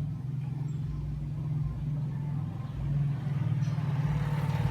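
Low, steady engine drone of a motor vehicle, growing louder about three seconds in and again near the end.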